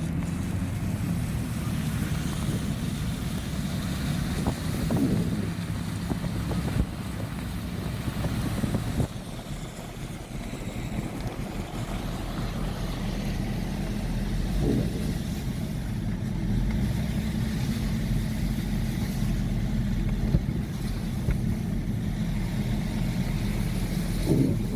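Steady low rumble of a car driving, with road noise. The rumble dips briefly about nine seconds in.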